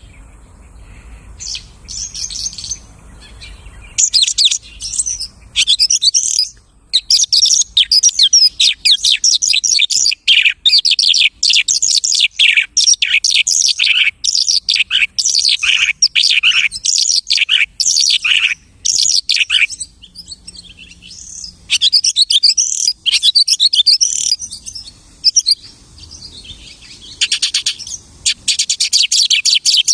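A lark singing a long, fast song of rapid high notes that sweep downward in quick runs. The runs break off briefly twice, in a song that copies the calls of other birds.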